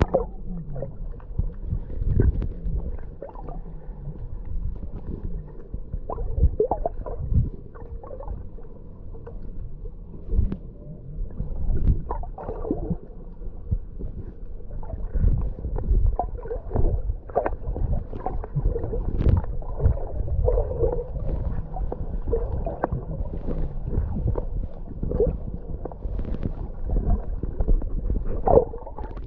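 Sea water sloshing and gurgling around the microphone, muffled, with irregular splashes throughout.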